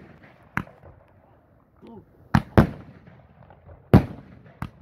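25-shot fireworks salute cake firing shot after shot: about five sharp bangs at uneven intervals, each with a short echo, the loudest near the middle and about four seconds in.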